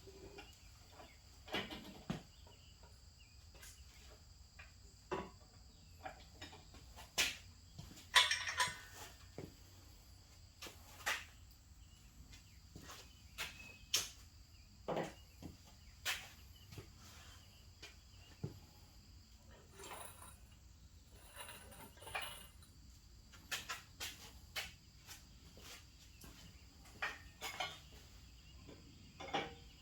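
Irregular metal clinks and knocks of tools and parts being handled, about twenty separate strikes. Crickets chirp steadily in the background.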